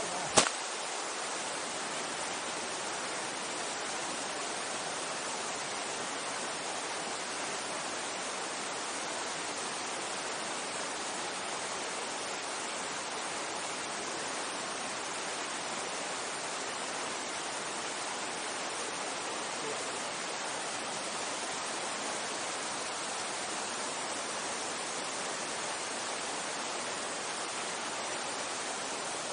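Mountain stream rushing, an even, steady hiss of running water. A single sharp click comes just after the start.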